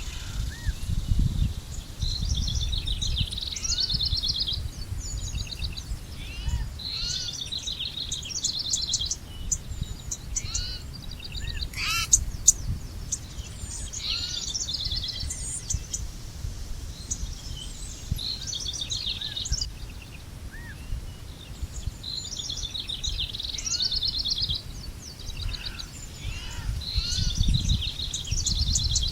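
Several songbirds singing: high trilling phrases that recur every few seconds, mixed with short rising chirps, over a steady low rumble of outdoor background noise.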